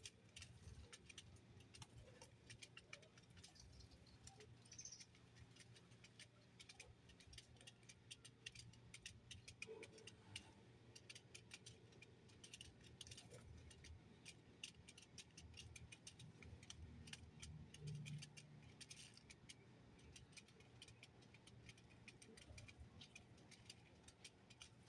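Faint, irregular small clicks and ticks over a low hum, close to silence.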